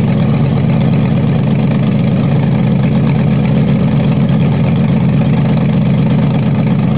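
The Moody & Jones gasser drag car's engine idling steadily and loudly, with a fast, even pulse.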